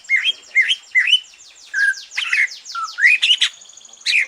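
Cucak ijo (greater green leafbird) singing a varied song: three quick rising whistled notes, then a fast run of high, descending notes mixed with louder slurred whistles.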